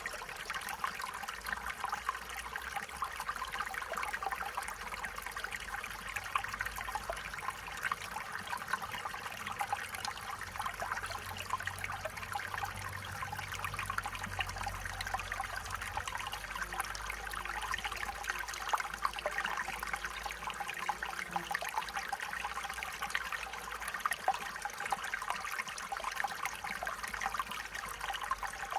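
Small stream water running and trickling steadily over stones, a continuous fine splashing burble with a faint low rumble in its lower range.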